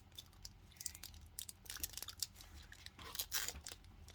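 Foil Pokémon booster pack wrapper crinkling and rustling as it is handled and opened, faint, growing busier near the end.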